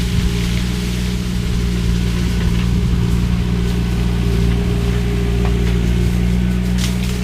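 Skid steer's diesel engine and hydraulic shredder head running at a steady speed, a constant low drone with no change in pitch.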